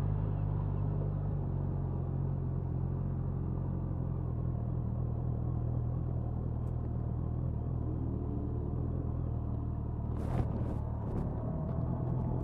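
Suzuki Hayabusa's inline-four engine and exhaust running steadily at low, even revs, heard from near the tail of the bike. A few sharp clicks come about ten seconds in.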